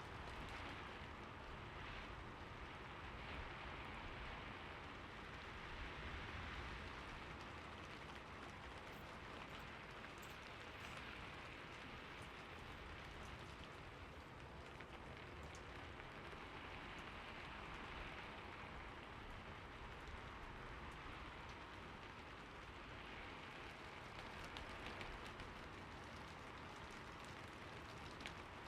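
Steady rainfall, an even hiss of rain with faint drops pattering on a surface.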